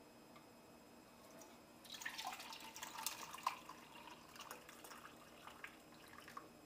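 Chicken juices and water poured from a rotisserie drip tray into a gravy separator: a faint splashing pour starts about two seconds in, then thins out into scattered drips.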